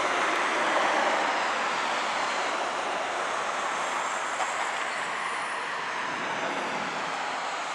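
Boeing 757-200 twin jet engines at takeoff power, a steady broad rushing roar with a faint high whine, slowly fading as the airliner moves away.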